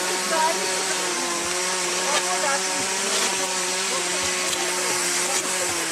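A small engine running steadily at high speed, holding one pitch and dropping slightly near the end, with scattered light clicks.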